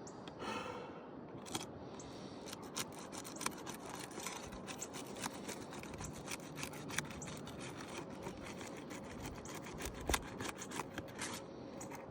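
Flat pry bar working under asphalt 3-tab shingle tabs to break their adhesive seal strips: scraping, then a rapid run of sharp crackling clicks and snaps starting a couple of seconds in.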